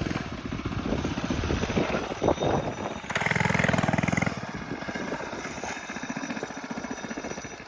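Small single-cylinder minibike engines running under throttle on a dirt track. The sound swells louder for about a second, around three seconds in, then eases off and fades near the end.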